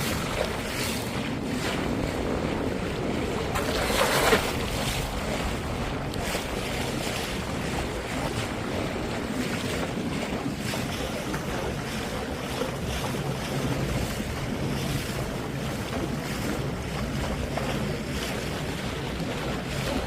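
Wind buffeting the microphone over steady sea-water sloshing and wave wash, with one louder splash about four seconds in.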